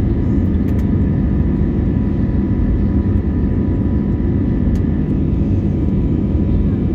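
Airbus A321neo's Pratt & Whitney geared turbofan engines and airflow heard as steady cabin noise: a constant low rumble with a few steady engine tones above it.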